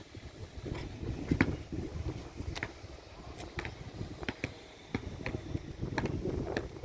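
Footsteps on pavement, about two a second, with a low rumble underneath.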